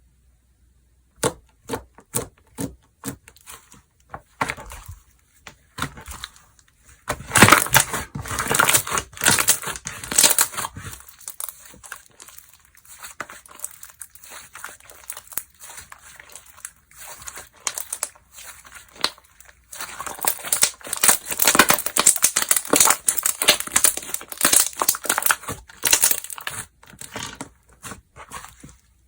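Hands squeezing, stretching and poking slime, giving many small clicks and pops. Separate clicks come first, then two dense, busy stretches with quieter handling between them.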